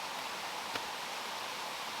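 Steady rush of running water, with a single light click about three-quarters of a second in.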